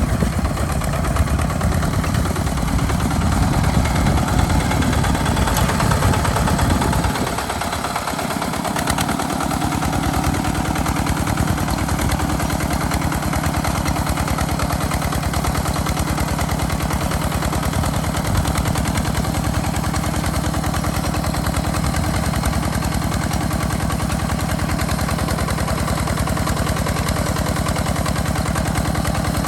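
Walking tractor's engine running steadily and pulling a plow, its low note dipping for a couple of seconds about seven seconds in before settling back to an even run.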